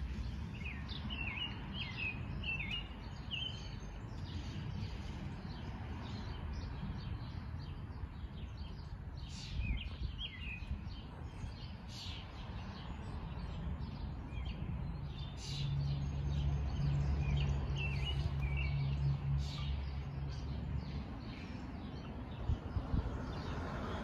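Small birds chirping in short, scattered calls over a steady low outdoor rumble. A steady low hum joins past the middle for about five seconds, then fades.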